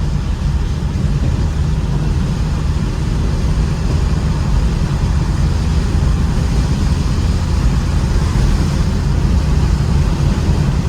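Ford Mustang's engine running steadily under way, with tyre and road noise on wet pavement, growing a little louder about a third of the way in.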